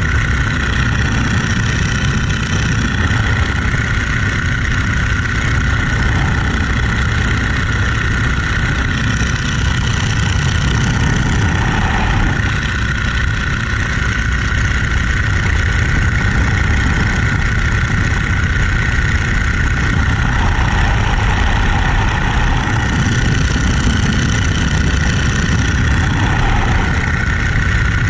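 Boeing-Stearman Model 75 biplane's radial engine and propeller running steadily in flight, a loud, even drone.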